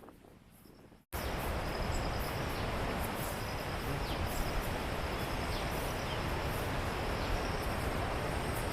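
Steady rushing roar of a waterfall and its stream, starting abruptly about a second in, with a faint high insect trill running over it.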